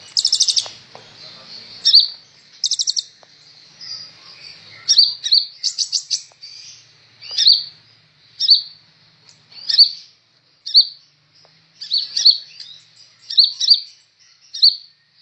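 A sunbird (the 'kolibri ninja' of Indonesian bird keepers) singing: sharp, high chirps and fast rattling trills in the first half, then short chirp phrases repeated about once a second.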